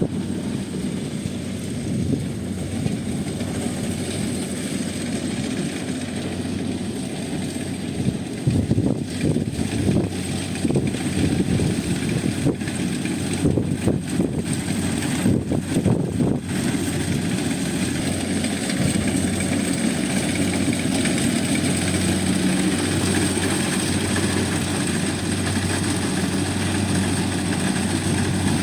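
Rice combine harvester engine running steadily, with a thin high whine over the hum. Louder irregular knocks and rattles come through for several seconds in the middle.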